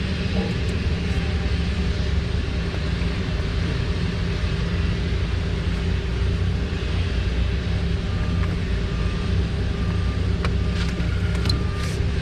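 A steady low engine rumble. About two-thirds of the way in, a vehicle's reversing alarm begins beeping, a short high beep repeating a little under twice a second.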